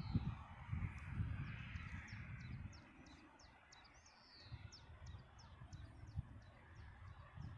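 A small bird singing a quick series of short, high repeated notes, about three a second, that stops about two-thirds of the way through. Gusty wind rumbles on the microphone, loudest near the start.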